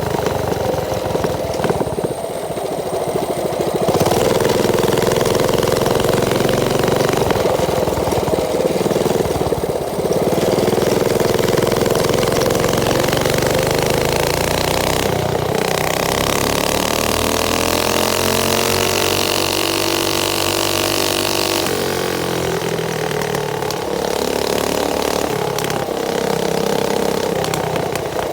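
Mini bike's small engine running, its pitch rising and falling several times as it is revved and eased off, with one longer climb and drop about two-thirds of the way through.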